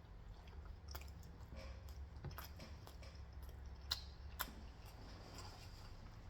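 A person chewing food close to the microphone, with a few sharp wet clicks, the loudest two about four seconds in, over a low steady hum.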